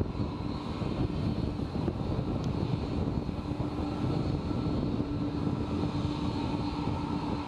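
Jet airliner engines running steadily: a continuous rushing noise with a steady low hum and a fainter high whine over it.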